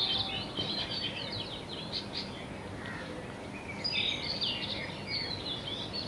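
Small songbirds chirping, many short high calls overlapping, thinning out near the middle and picking up again about four seconds in, over a faint steady hiss.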